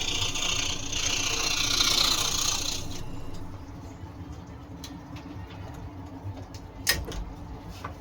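Scroll saw blade cutting wood, a steady rasping that stops about three seconds in. A low hum carries on, with a few light clicks and one sharp knock near the end.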